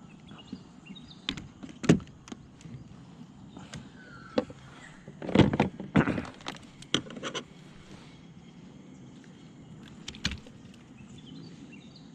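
Scattered knocks, clicks and clatter of a fish and fishing gear being handled on a plastic kayak, with a cluster of louder thumps about five to seven seconds in.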